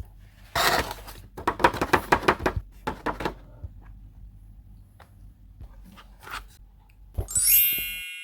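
Packaging being handled during an unboxing: a short tearing rustle, then runs of quick clicks and taps. Near the end a bright chime rings out and fades.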